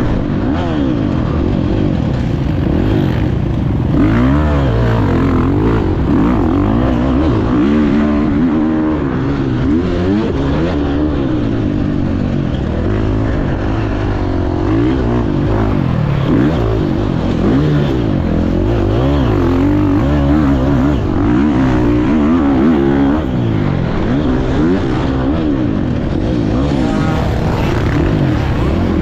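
Motocross bike engine revving up and down as it is ridden hard round a dirt track, its pitch rising and falling again and again with the throttle and gear changes.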